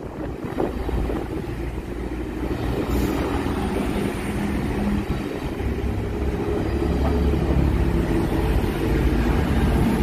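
DSB passenger train rolling past along the platform: a steady low rumble of wheels on rails that grows gradually louder.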